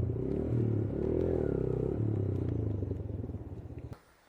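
Motorcycle engine running, with a brief rise and fall in pitch about a second in, fading out about four seconds in.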